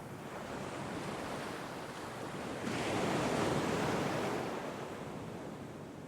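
Sea waves washing on the shore: a steady surf hiss that swells as a wave breaks about three seconds in, then ebbs away.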